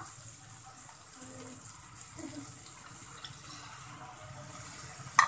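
Chickpeas and diced potatoes frying in oil in a karahi over a high gas flame: a steady sizzle. A sudden loud knock near the end.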